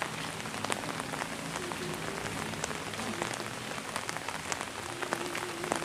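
Steady rain falling, with many scattered sharp drop hits close to the microphone.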